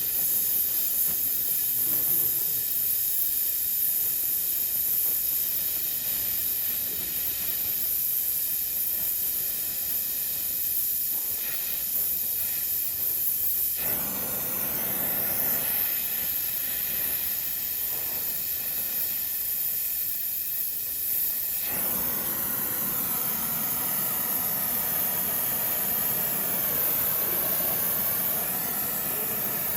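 Steady hiss that runs on without a break, fuller and louder in the middle range during its first and last thirds.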